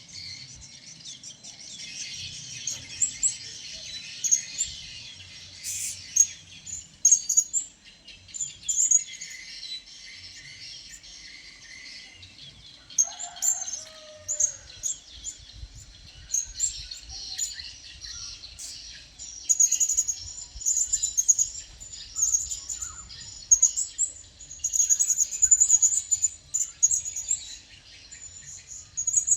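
Blue-crowned hanging parrots giving many short, high-pitched chirping calls in quick succession, growing busier and louder in the last third.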